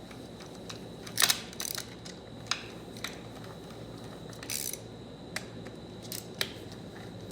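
Scattered sharp metallic clicks and short clatters from handling the transmission valve body and its bolts, the loudest a little over a second in.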